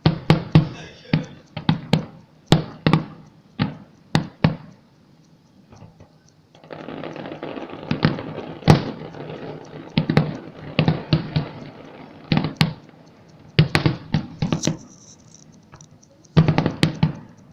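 Fireworks going off: an irregular series of sharp bangs, with a dense stretch of crackling between about seven and thirteen seconds in and a short lull before it.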